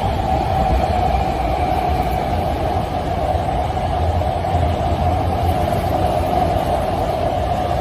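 Hankyu 1000 series electric train running through the station at speed without stopping: a steady rumble of wheels on rail with a constant whine over it.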